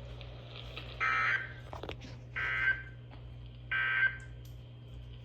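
Three short, harsh, buzzy data bursts from a NOAA Weather Radio receiver, about a second and a half apart: the SAME digital end-of-message code that closes the warning broadcast. A steady low hum runs underneath.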